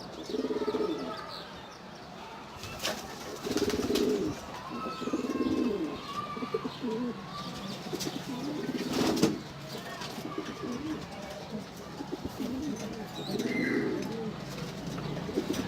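Pigeons cooing, low rounded coos repeated every second or two, with some higher chirps. There are a couple of sharp knocks, one of them about three seconds in and the loudest a little after nine seconds.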